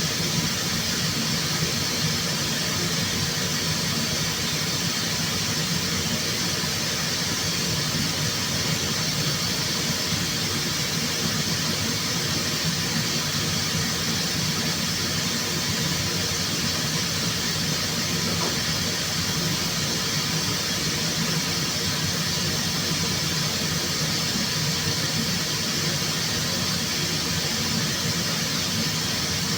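Steady, continuous hiss of a compressed-air tool, with a low hum under it.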